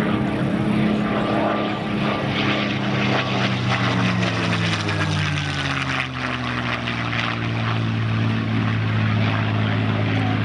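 P-51 Mustang's Merlin V-12 engine and propeller on a fast pass at about 300 miles an hour. The engine note drops in pitch as the plane goes by, about four to seven seconds in, then settles into a steady lower drone.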